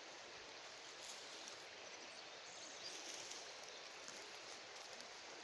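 Faint, steady rushing of a flowing river.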